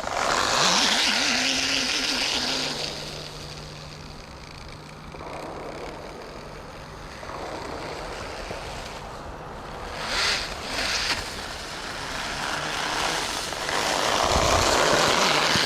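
Radio-controlled car driving: its electric motor whirs and its tyres run over the ground. The sound is louder near the start and again near the end, with a faint steady hum under it.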